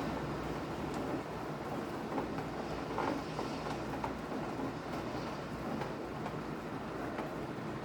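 Steady rain falling, a continuous even hiss with a few faint drop ticks and a low rumble underneath.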